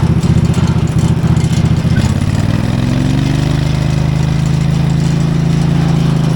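16-horsepower Briggs & Stratton V-twin engine on a repowered Iseki tractor, running through a 2-inch exhaust pipe. About two seconds in, the engine speeds up, then holds steady at the higher speed.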